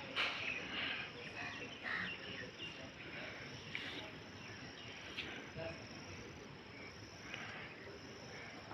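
Outdoor countryside ambience: a steady high insect drone, with short bird chirps scattered over it.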